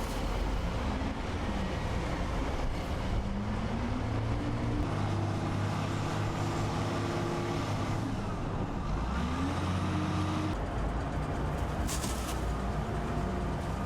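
Heavy vehicle engines running and revving up and down several times as a salt-gritting truck is loaded with road salt, with a short clatter about twelve seconds in.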